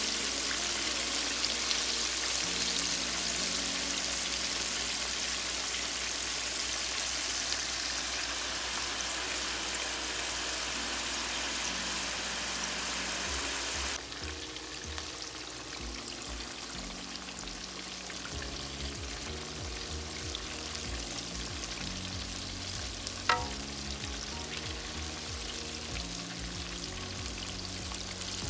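Flour-breaded chicken tenders deep-frying in hot oil, a steady sizzle that turns quieter about halfway through. Soft background music runs underneath, and there is a single sharp click near the end.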